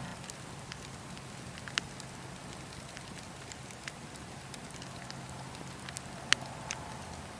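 Wood fire crackling: scattered sharp pops and snaps over a soft steady hiss, the loudest pop about six seconds in.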